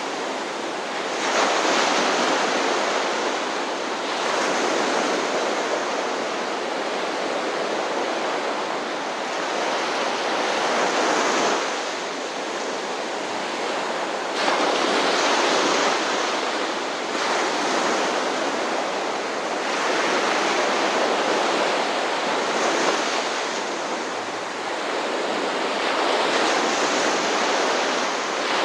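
Ocean surf: waves breaking and washing in, swelling every few seconds and easing between.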